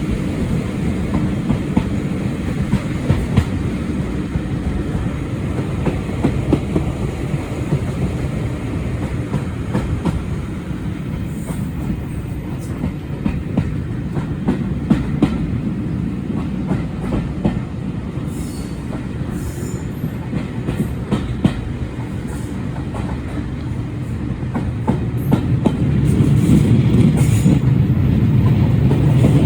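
Heritage passenger train running along the line, heard from on board: a steady low rumble of the coaches with the wheels clicking over rail joints. It grows louder near the end.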